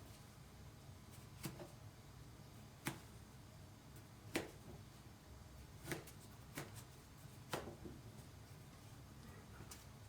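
Light, sharp clicks about every second and a half, seven or so in a row, from a knife's repeated sharpening strokes.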